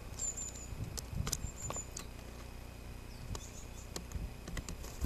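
A small bird gives two brief runs of thin, very high calls, with scattered light taps and clicks against a steady low hum. The taps come as a bird comes onto a wooden feeder tray of walnuts.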